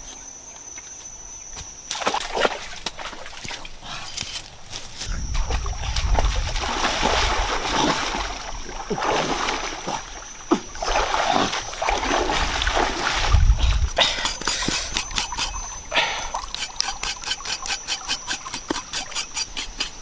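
Water splashing and sloshing in irregular bursts, as with washing something by hand, over a thin steady high-pitched tone. Over the last few seconds it turns into a quick, even run of short strokes.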